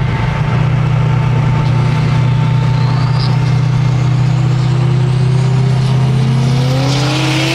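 Car engine running with a loud, steady low drone. Over the last few seconds a second engine's pitch climbs steadily, as a car accelerates.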